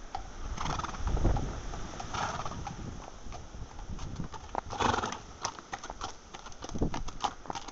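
A horse's hooves clip-clopping at a walk, with strong wind buffeting the microphone. Three short breathy bursts stand out, near the start, about two seconds in and about five seconds in.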